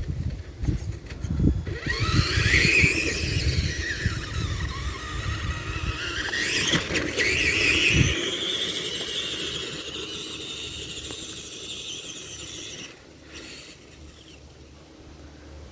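Tamiya TXT-2 RC monster truck's electric motor and gears whining, rising and falling in pitch with the throttle, from about two seconds in until it fades near the end. Through the first half the whine sits over a rough crackling of sticks and brush under the tyres.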